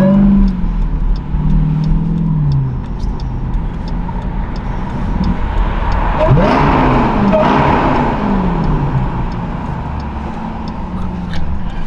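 2023 Dodge Durango SRT Hellcat's supercharged V8, mufflers cut out so it runs straight-piped, revving hard under acceleration. The engine note climbs and falls twice, the second pull about six seconds in and the louder of the two.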